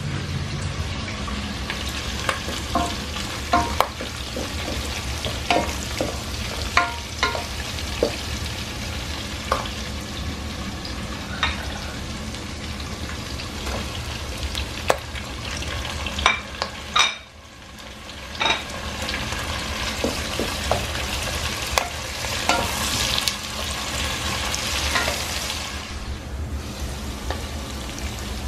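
Onion, garlic, bottle gourd and tomato sautéing in hot oil in a pot, a steady sizzle, with frequent sharp clicks and knocks of utensils against the pot. The sizzle drops out for a moment about two-thirds of the way through, then comes back louder.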